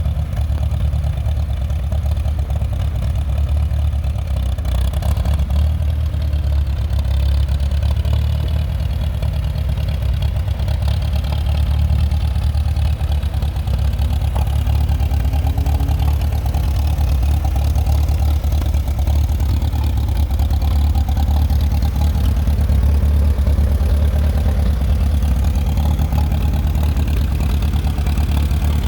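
1953 Farmall Super M tractor's four-cylinder gasoline engine running steadily.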